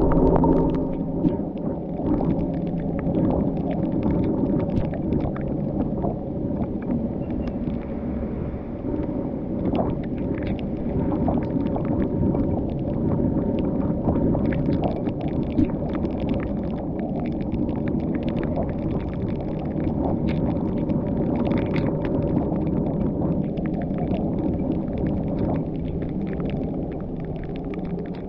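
Car driving on the road: a steady engine drone and road rumble with a low hum, and scattered ticks and taps throughout.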